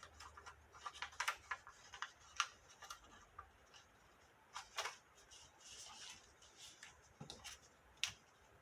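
Cardstock box lid being folded and creased by hand along its sides and tabs: faint scattered clicks and short soft paper rustles.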